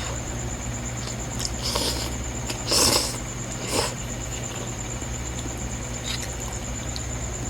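Three short eating noises while noodles are being eaten, the middle one the loudest, over a steady low hum and a faint high whine.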